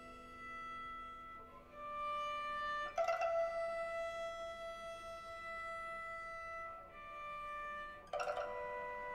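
Two pipas and a cello playing slow chamber music: long sustained notes that change pitch every few seconds, with sharp plucked attacks about three seconds in and again near the end.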